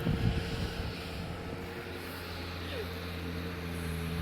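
An engine running at a steady pitch: a low, even hum that settles in about a second and a half in and holds.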